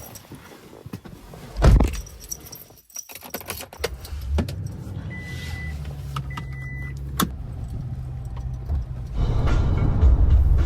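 Keys jangling and a heavy thump, then a pickup truck's engine comes on and runs steadily, with two short electronic chime beeps. Near the end the engine gets louder as the truck pulls away.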